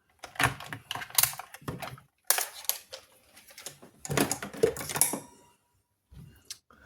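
Clusters of quick clicks and taps from small tools and parts being handled on a workbench, coming in three bursts with short pauses between them.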